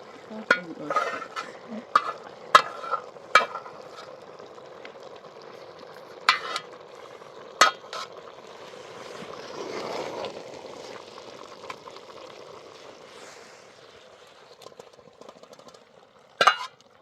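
Food frying in a pan with a steady sizzle, while a utensil stirs it and knocks against the pan in a string of sharp clinks during the first eight seconds.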